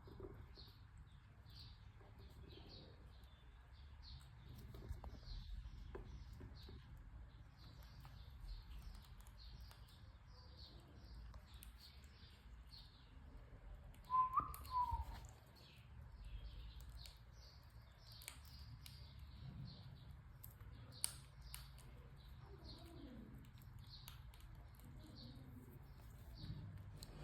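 Birds chirping: a steady string of short, high chirps, two or three a second, with one louder, bending call about halfway through.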